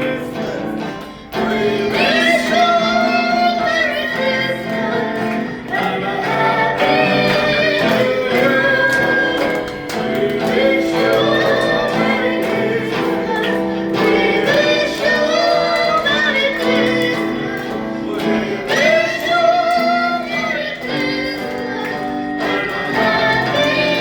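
A group of voices singing together over musical accompaniment, with a brief drop about a second in.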